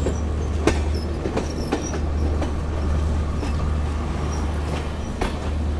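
Passenger train running along the track, heard from an open coach door: a steady low rumble from the wheels and running gear, with sharp clacks coming every half second to second as the wheels pass over the track.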